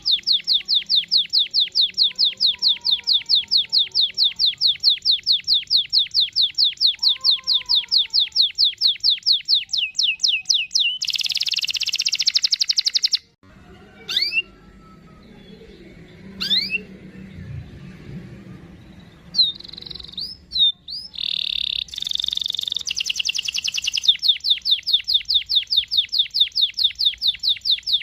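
Domestic canary singing: long runs of quick, high repeated chirps, about four or five a second, then a fast rolling trill near the middle. The song drops off suddenly into a quieter stretch with a few rising whistles, then a trill and the quick repeated chirps start again.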